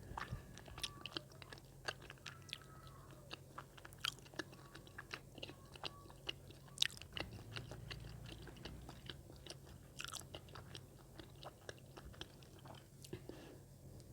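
Close-miked chewing of spicy tteokbokki rice cakes: a steady run of small, irregular wet mouth clicks and smacks.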